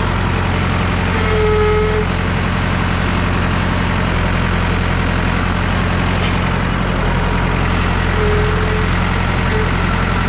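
Massey Ferguson 3165 backhoe tractor's diesel engine running hard as the tractor struggles in deep mud. A short, steady whine is heard twice, about a second in and again near the end.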